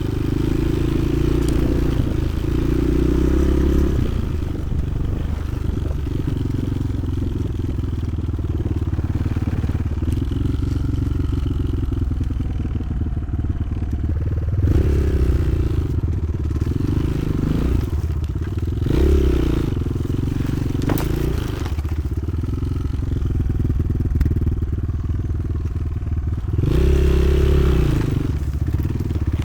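Motoland XR 300 Lite enduro motorcycle engine running under way, the throttle opened in short revs a few times, most strongly near the end.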